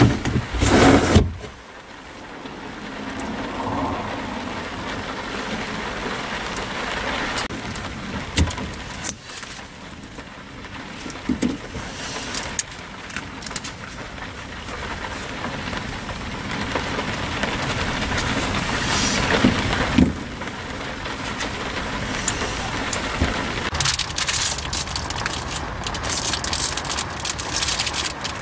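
Heavy rain pouring down, its sound changing abruptly several times as the scene switches between rain sounds.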